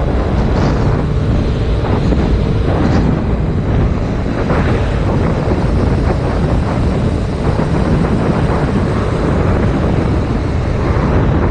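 Heavy wind rushing on a GoPro Hero 5 Black's microphone on a moving motorcycle, a dense low rumble that buries most other sound, with the 2019 Yamaha MT-07's engine running beneath it.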